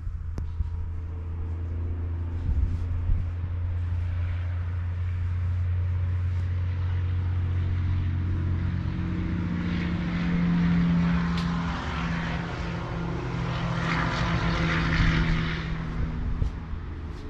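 An engine running steadily with a low hum. A higher tone joins about halfway through, and a hiss swells and fades in the second half.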